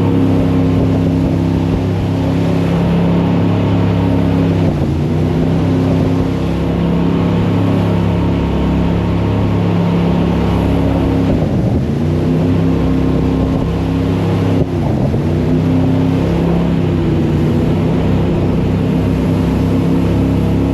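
Jet boat engine running hard, a steady drone over rushing water and wind. Three times, about five, twelve and fifteen seconds in, the engine pitch drops briefly and climbs back as the throttle is eased and opened again.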